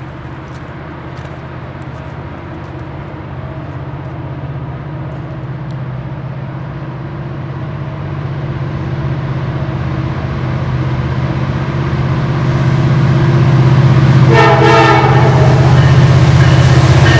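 Approaching train locomotive, its engine drone growing steadily louder, then its horn sounding about three seconds before the end.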